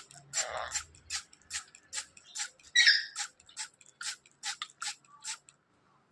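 A parrot making a rhythmic series of sharp clicks, about two a second, with one louder squeaky click about three seconds in; the clicking stops about a second before the end.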